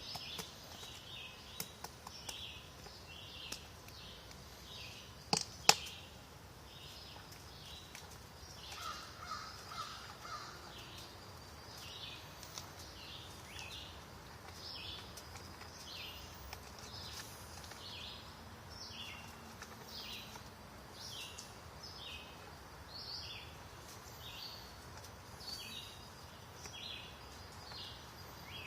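Woodpecker pecking on wood: a few sharp single taps in the first six seconds, the loudest about five seconds in. Over them a bird gives a short high call again and again, about twice a second throughout, with a brief quick trill near the middle.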